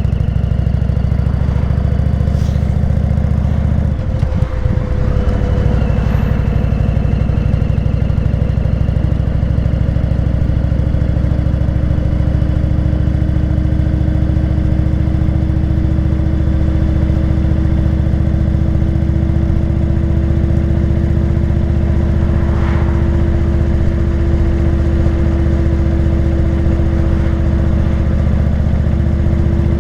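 Indian motorcycle's V-twin engine running steadily under way, with a brief break in its note about four seconds in, then a slowly rising pitch as it pulls on.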